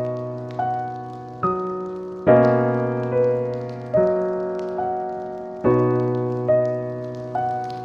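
Slow, gentle solo piano music: single notes and chords struck at an even pace of a little more than one a second, each left to ring and fade.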